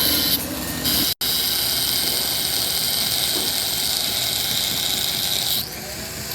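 Steady, loud machine noise with a strong hiss, broken by a sudden instant of silence about a second in.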